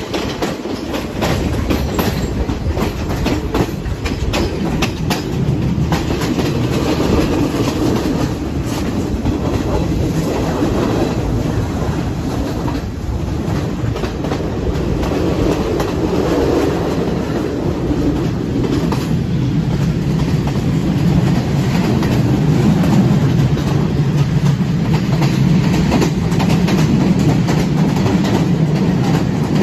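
Passenger train running, heard from on board through an open window: a steady rumble with the wheels clicking and knocking over the rail joints.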